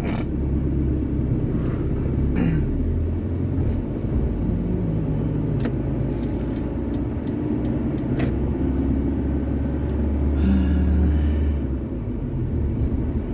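Steady low rumble of a motor vehicle running, with a few short clicks and knocks over it.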